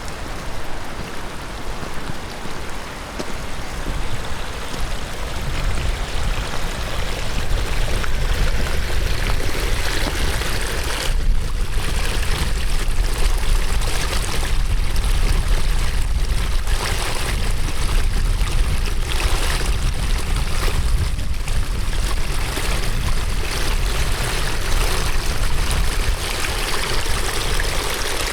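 Rain-swollen stream rushing steadily, getting louder a few seconds in.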